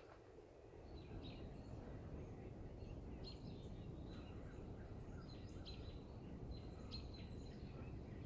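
Faint songbird calls, short high chirps scattered every second or so, over a low steady background rumble.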